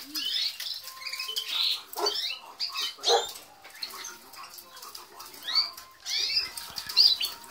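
Red factor canary cocks calling in short, sweeping chirps from several birds, irregularly spaced, with a few light clicks in between.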